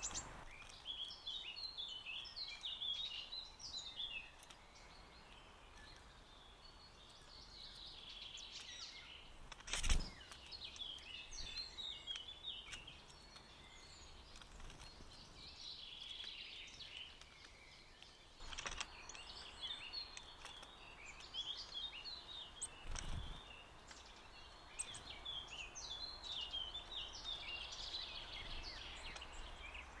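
Small birds chirping and twittering in quick short runs, with a sharp knock about ten seconds in and two softer ones later.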